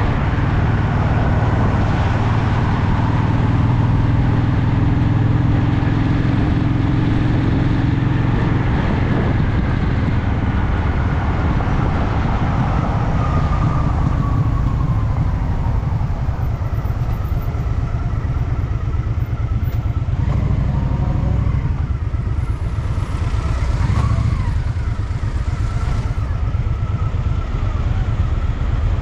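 Honda Shadow VT750's V-twin engine running under city riding, easing off in the middle and pulling again later, with wind and road noise.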